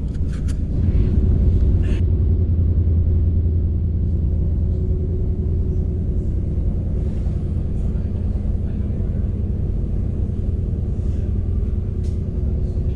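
Sprinter commuter train running along the track, heard from inside the carriage: a steady low rumble with a few short sharp clicks near the start and later on.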